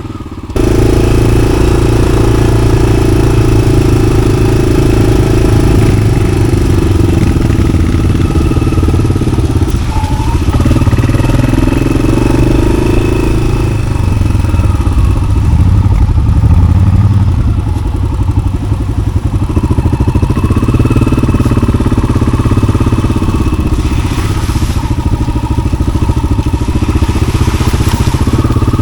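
Yamaha XT600's single-cylinder four-stroke engine running while riding, heard through its aftermarket Arrow exhaust. The note rises and falls a little with the throttle. It comes in abruptly about half a second in, much louder than just before.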